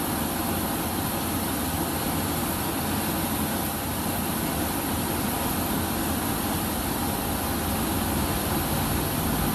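Jet aircraft engines running steadily: an even rushing noise with a faint low hum underneath, holding the same level throughout.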